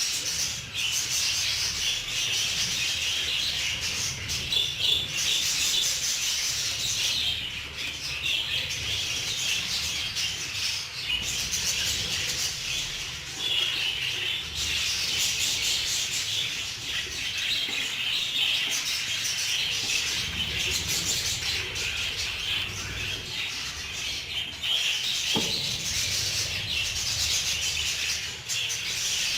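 Many budgerigars chattering and chirping together without pause.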